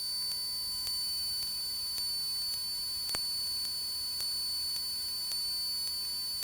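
Steady high-pitched electrical whine and hum on a Cessna 172's intercom audio, with one faint click about three seconds in.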